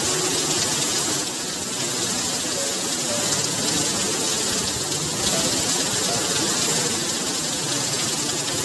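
Heavy rain pouring onto a paved street, a steady, even hiss.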